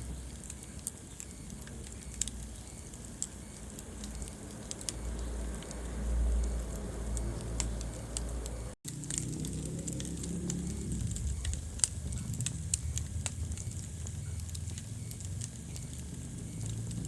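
Wood fire in a fireplace crackling, with many sharp irregular pops and snaps over the low steady rumble of the flames. The sound drops out for a split second a little past halfway, then carries on.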